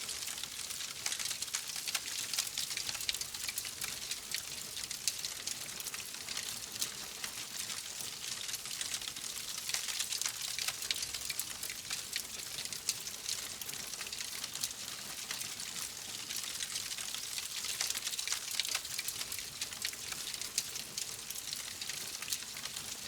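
Wood fire crackling: a dense, steady run of small pops and snaps over a soft hiss.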